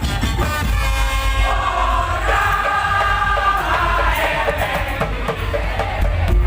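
Madurese daul (tong-tong) music played loud: a heavy, continuous drum beat, with a held melodic line over it in the middle.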